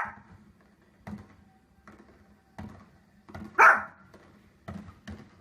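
A dog barking in short, separate barks about a second apart, with one much louder bark about three and a half seconds in.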